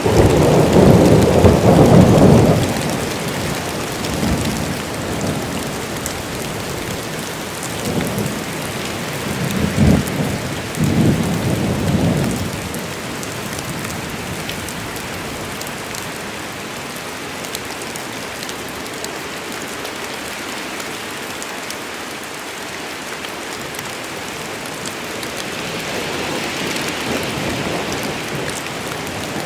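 Steady heavy rain falling on a forest, with thunder rumbling low, loudest in the first two seconds and again in swells around eight to twelve seconds in, then rain alone.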